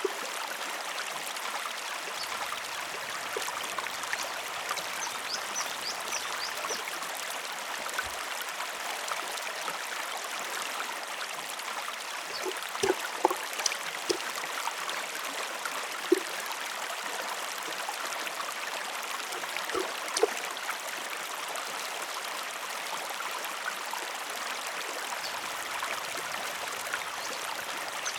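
River water flowing steadily, with a few short sharp clicks and knocks around the middle.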